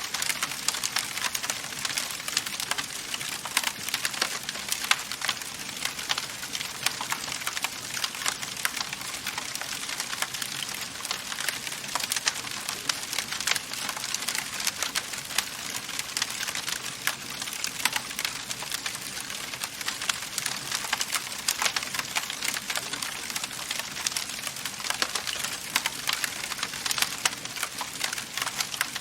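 Wood fire burning in a fireplace, crackling steadily with many small sharp pops and snaps over a constant hiss.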